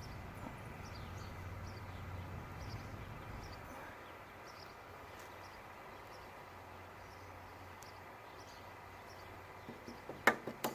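Quiet outdoor background with faint short chirps of birds or insects and a low hum that fades after about four seconds. Near the end come a few sharp knocks in quick succession.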